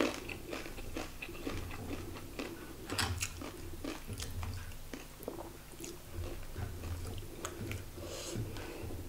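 A person chewing food close to the microphone, mouth sounds with irregular crisp crunches, the sharpest about three seconds in.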